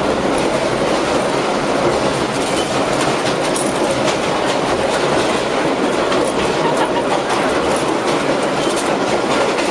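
1916–1926 American Car & Foundry Low-V subway car running at speed, a steady rumble with the wheels clattering over the rail joints.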